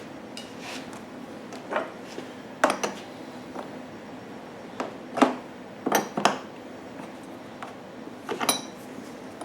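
A metal wrench clinking and clicking against a fuel fitting as it is turned and tightened: scattered, irregular metallic knocks, about eight in all.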